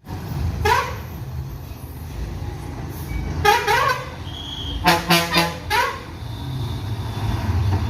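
Bus horn sounding a series of short toots, some bending upward in pitch: one about a second in, two more at about three and a half seconds, then a quick burst of several toots around five seconds. A steady low engine rumble runs underneath.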